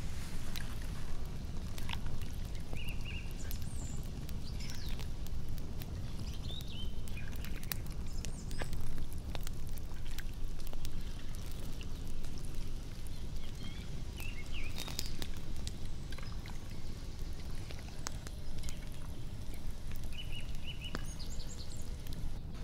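Hands squeezing and kneading marinated raw beef slices in a wooden bowl, giving soft wet squishes and small clicks, over a steady low background rush. A few short bird chirps come now and then.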